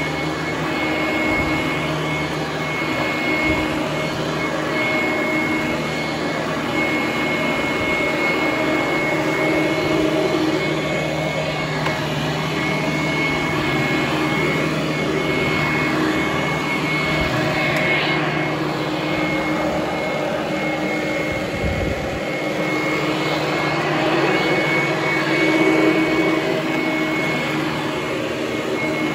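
Vintage Hoover Conquest commercial direct-air vacuum cleaner running steadily on carpet: a constant rush of air over a motor hum, with a thin high whine on top.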